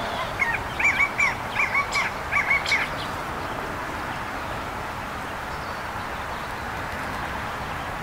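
A bird calling off-camera: a quick run of short, clear repeated notes in the first three seconds, over a steady background hiss.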